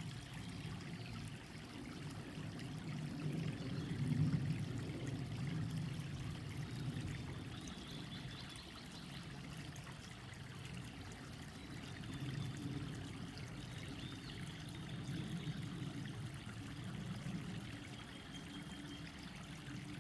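Mountain valley stream flowing: a steady low rush of water that swells briefly about four seconds in.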